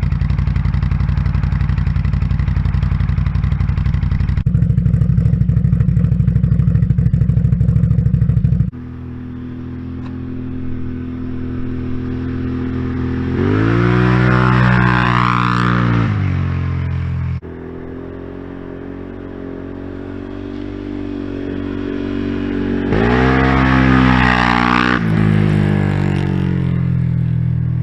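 Can-Am Outlander ATV's V-twin engine running through an aftermarket exhaust. It holds a steady high drone for about nine seconds, then after a cut it revs up and back down twice.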